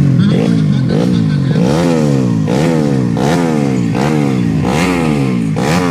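Motocross dirt bike engine revving in quick repeated surges, each climbing in pitch and then dropping, about one every three quarters of a second.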